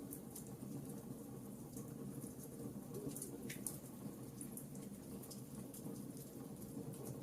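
Logs burning in a wood fireplace: a faint, steady low rumble of the flames with scattered small crackles and pops, one sharper pop about three and a half seconds in.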